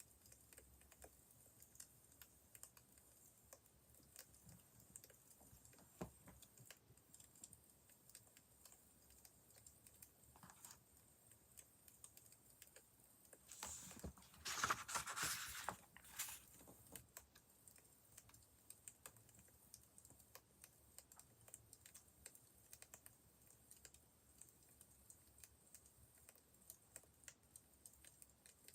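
Faint crackling of a wood fire: sparse, irregular small pops and clicks. A louder rustle, like a page being turned, comes about halfway through.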